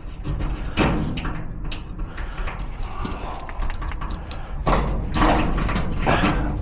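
Lock picks clicking and scraping in a garage door lock cylinder, with louder rattling knocks of the metal door about a second in and again near the end.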